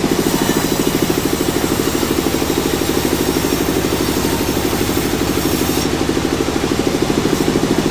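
Sawmill machinery running steadily: an engine-driven drone with a fast, even pulse that holds unchanged throughout.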